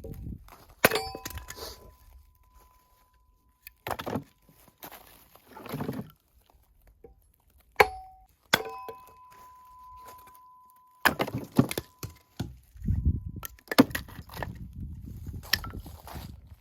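Firewood being split with an axe: several sharp strikes on wood, spaced a few seconds apart, some of them leaving a short metallic ring.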